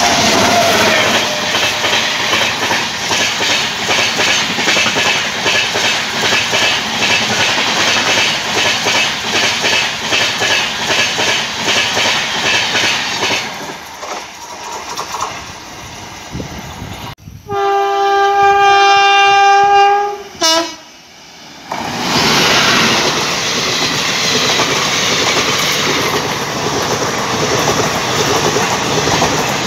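Indian Railways express train hauled by an electric locomotive passing close at speed, with a rhythmic clatter of wheels over rail joints that fades as the coaches recede. About two-thirds of the way through, a locomotive horn sounds a loud chord for about three seconds, followed by a short toot. A second express train then rushes past.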